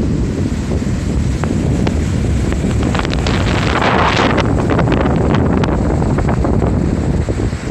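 Strong wind buffeting the microphone in a steady low rumble, with surf breaking underneath; a louder hiss of wash swells up about three seconds in and dies away by about five seconds.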